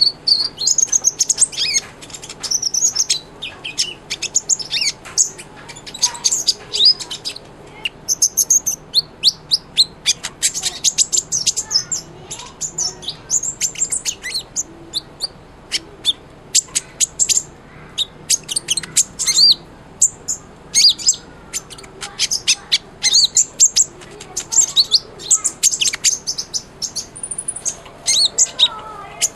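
A sunbird, the 'kolibri ninja' of Indonesian bird keepers, singing hard: rapid runs of high, thin chirps and short sweeping notes, phrase after phrase with brief gaps.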